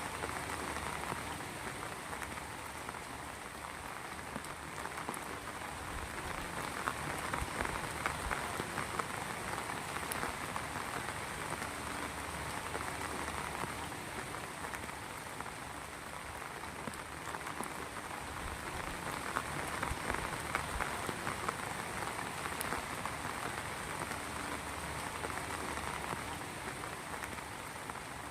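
Heavy rain falling steadily, with dense patter of drops striking a surface.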